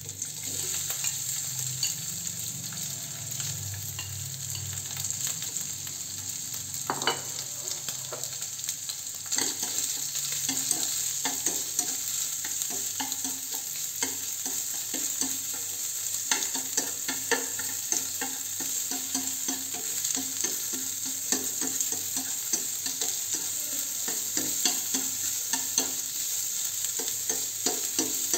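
Sliced beef and garlic sizzling in hot oil in a nonstick frying pan, stirred with a spatula that scrapes and taps the pan; the taps come more often from about nine seconds in.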